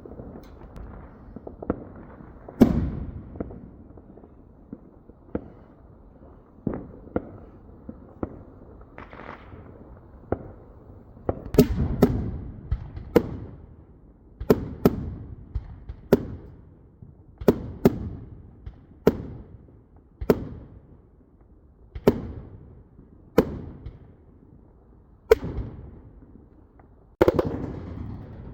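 Fireworks exploding: about twenty sharp bangs at irregular intervals, a second or two apart, each trailing off in a rumble.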